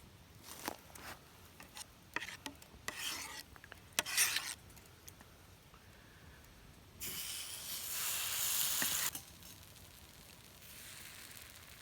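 Cooking at a pan: a utensil scraping and stirring with scattered clicks, then a loud hiss about seven seconds in that lasts about two seconds, with a fainter hiss near the end.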